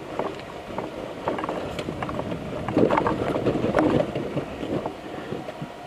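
Enduro motorcycle rolling down a slippery, muddy jungle track off the throttle: a rough clatter of knocks from the tyres, suspension and chassis, with no clear engine note, busiest about three seconds in.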